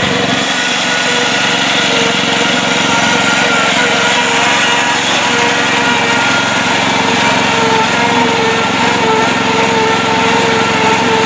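Mastercraft lawn tractor's small engine running steadily as it drives, with a steady whine and a loud transmission.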